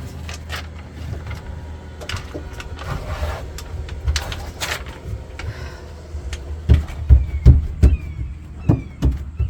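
Handling noises with clicks and rustles, then a run of dull thumps in the second half, over a steady low hum. A few short falling bird chirps near the end.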